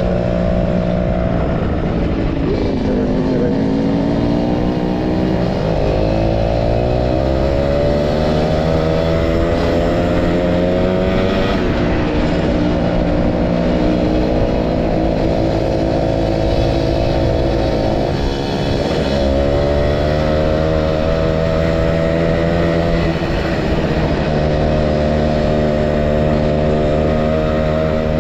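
Motorcycle engine under way while riding, its pitch climbing as it pulls and dropping back at gear changes several times, with a steady rush of wind and road noise.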